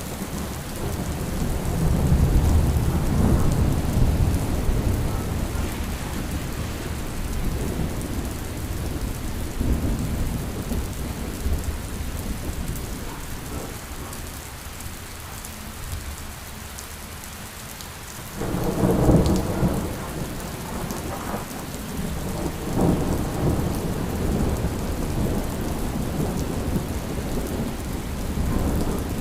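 Steady rain with rolling thunder: a long low rumble swells a couple of seconds in and fades to a lull, then a sudden louder peal breaks about eighteen seconds in and rumbles on.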